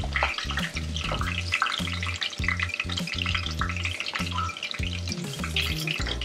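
Chicken pieces sizzling in hot oil in a pot, a dense steady crackle, as pieces are lifted out with a spoon. Background music with a bass line plays underneath.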